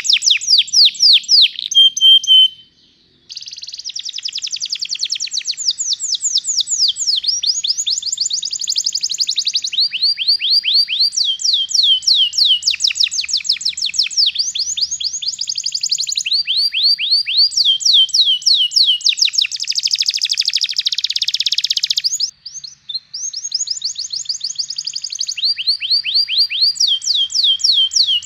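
Domestic canary singing a long rolling song: tours of rapid, evenly repeated high notes, each tour a different note type, following one another with barely a break. The song pauses briefly about three seconds in and stutters for a moment near the end.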